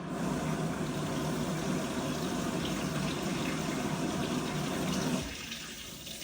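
Water rushing into an LG 16 kg washing machine as it fills. The rush starts abruptly and holds steady, then falls to a quieter flow about five seconds in.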